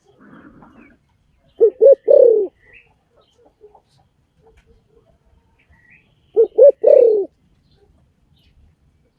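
A spotted dove cooing twice. Each phrase is two short coos followed by a longer coo that falls in pitch. Faint high chirps come between the phrases.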